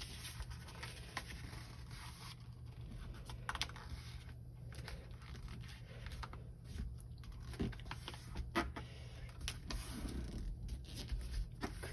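A sheet of printer paper being folded and creased by hand: soft scraping and crinkling with scattered small clicks over a low steady background hum.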